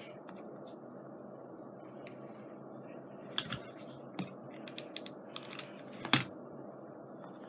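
A scattered run of light clicks and taps from small craft pieces and tools being handled on a work table, loudest about six seconds in, over a steady low background hum.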